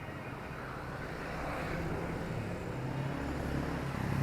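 Street traffic: a motor vehicle's engine rumbling, growing slowly louder toward the end.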